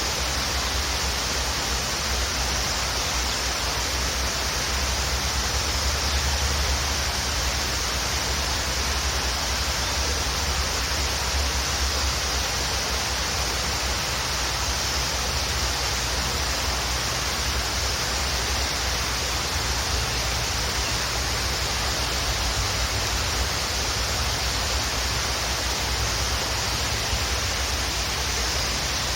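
Waterfall rushing: a steady, unbroken hiss of falling water with a low rumble underneath.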